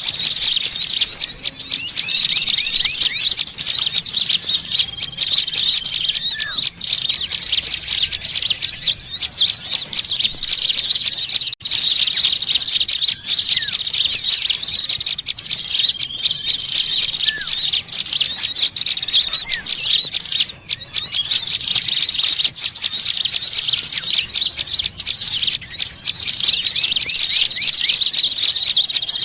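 A dense, agitated chorus of many small birds chirping and twittering rapidly and without pause, high-pitched, as played in a bird-luring (pikat) recording of noisy, aggressive small birds. It breaks off for an instant twice, about a third and two-thirds of the way through.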